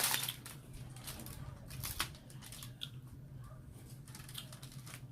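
Close-up eating sounds from chewing barbecue pork ribs: irregular wet mouth clicks and smacks, loudest right at the start and about two seconds in.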